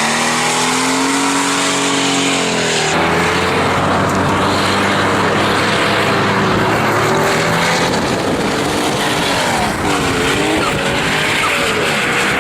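Mercedes S 600 twin-turbo V12 held at high revs, then tyres spinning and squealing in a burnout from about three seconds in, the engine pitch rising and falling as the throttle is worked.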